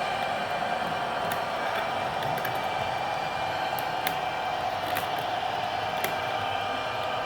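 Bachmann HO scale Amtrak ALC-42 model locomotive running: a steady hum with a few light clicks scattered through it.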